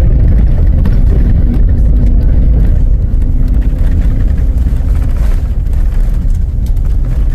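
A motor vehicle running: a loud, steady low rumble with a faint engine hum above it.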